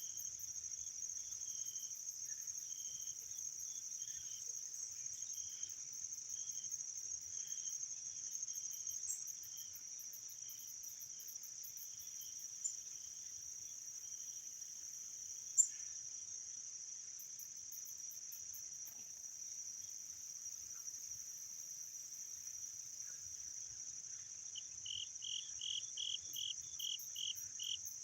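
A steady, high-pitched insect chorus drones on without a break. Softer short chirps sound now and then beneath it, with a quick run of about eight notes near the end, and one sharp click about halfway through.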